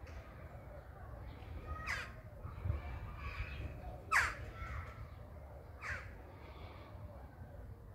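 A bird calling three times, about two seconds apart. Each call is short and falls sharply in pitch, and the middle one is the loudest. A low steady rumble runs underneath.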